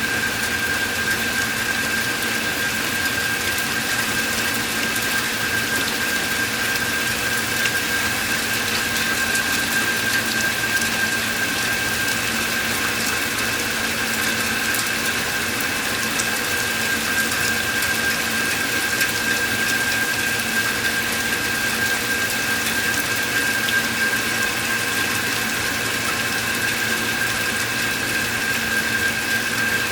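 Steady rain falling, an even hiss, with a constant high whine held under it throughout.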